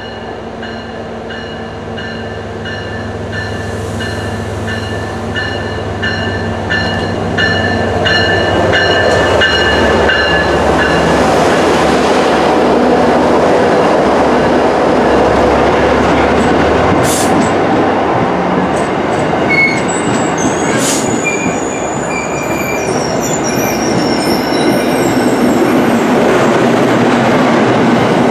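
MBTA commuter train passing, with a bell ringing about once a second at first. The rumble of the train then builds and stays loud, and high-pitched wheel squeal comes in during the second half.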